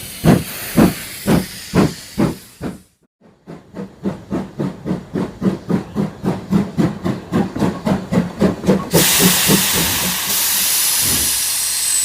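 Steam locomotive chuffing sound effect: the puffs slow down and stop, then start again and speed up to about four a second. They then give way to a steady hiss of steam.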